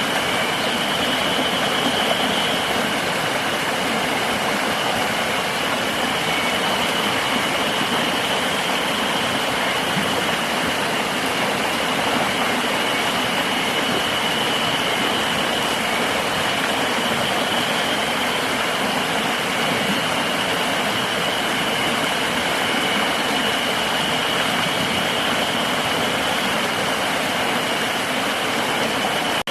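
A river rushing in a steady wash of water noise, with a constant high-pitched insect drone over it.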